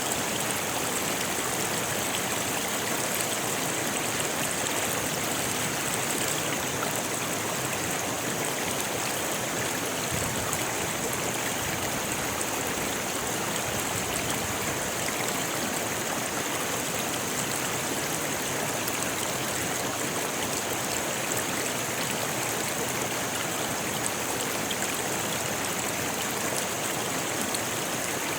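Rocky river flowing steadily, water rushing and splashing over stones in an even, unbroken wash.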